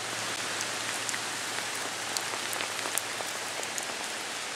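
Steady rain falling, with sharp ticks of single drops landing close by now and then.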